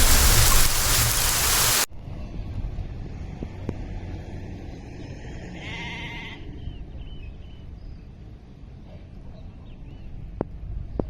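Loud hiss of heavy rain that cuts off abruptly about two seconds in. A quieter low rumble follows, with livestock bleating once briefly about six seconds in and faint bird chirps.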